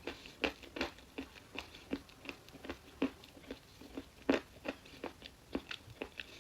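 Chalk being bitten and chewed close to the microphone: a steady run of short, crisp crunches, about three a second, with one louder crunch a little past the middle.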